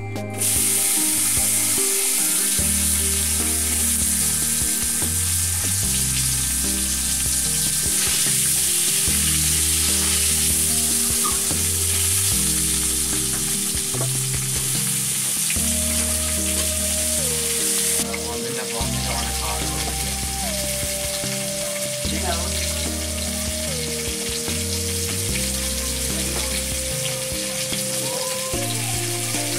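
Hot oil sizzling steadily in a pan as pieces of raw green banana fry, coming in suddenly about half a second in. Background music plays underneath: a repeating bass line and a slow, simple melody.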